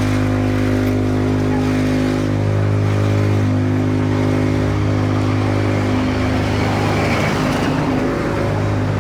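Busy Indian street ambience: a vehicle engine running steadily close by, with a constant hum over the general noise of traffic and crowd.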